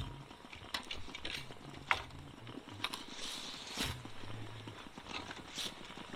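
Campfire crackling, with irregular sharp pops and snaps and a brief soft hiss about three seconds in.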